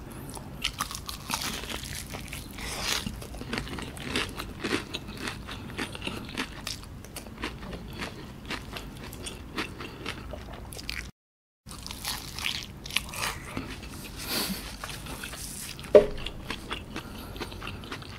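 Close-up chewing and biting of crispy KFC fried chicken, with many small crackly crunches from the breading. There is a short dropout to silence just past the middle and one sharper crunch near the end.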